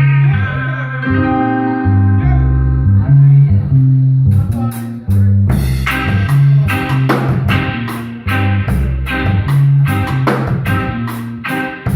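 Live instrumental band playing: bass guitar walking under sustained guitar notes. A steady beat of sharp percussive hits joins about four seconds in.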